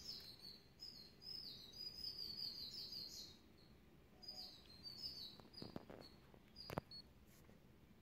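Faint bird chirping: runs of quick, high, falling chirps that pause for about a second a little after three seconds, then resume. Two sharp clicks come near the end, the second the loudest sound.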